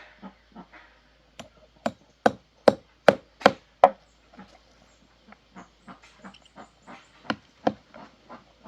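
A steady run of hammer blows on wood, about two and a half strikes a second. The blows grow heavy in the first few seconds, then go on as lighter taps.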